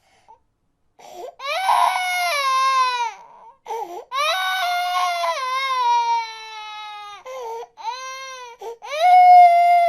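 A baby crying: after about a second of silence, four long wails, each falling in pitch, with short gasping breaths between them.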